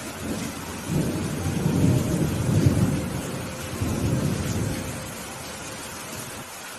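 Thunder rolling over steady rain. The rumble builds about a second in, peaks, swells once more and dies away by about five seconds, while the rain hiss goes on.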